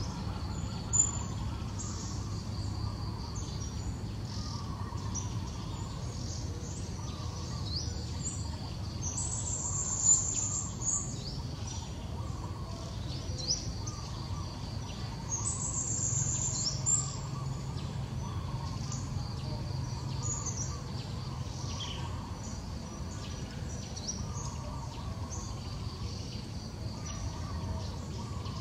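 Wild birds chirping over a steady low rumble of outdoor background noise. A few short, high, louder chirps stand out about a third of the way in and again a little past the middle.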